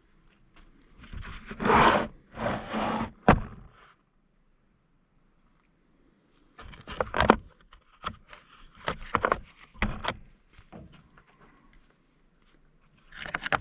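Irregular scraping, knocks and clatter of scrap parts being handled while an air-conditioning unit is taken apart, in two spells with a few seconds of complete silence between them.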